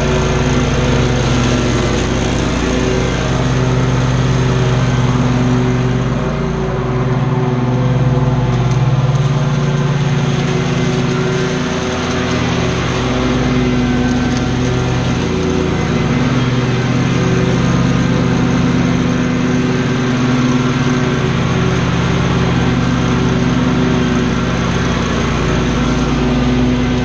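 Commercial lawn mower engine running steadily while mowing, its pitch shifting slightly now and then.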